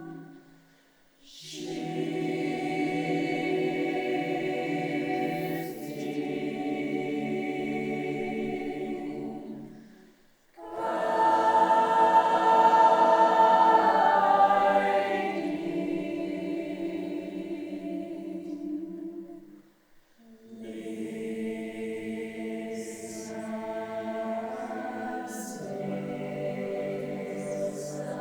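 Choir singing a cappella: long held chords in three phrases, each stopping briefly for breath, the middle phrase the loudest.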